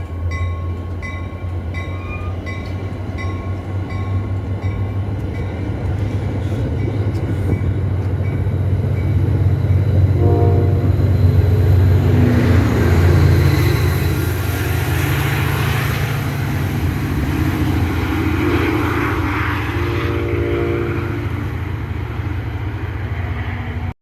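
NJ Transit commuter train passing, with a heavy steady engine rumble and the rush of wheels on rail that swells midway. The horn sounds a chord about ten seconds in and again near the end. In the first few seconds a grade-crossing bell dings about twice a second.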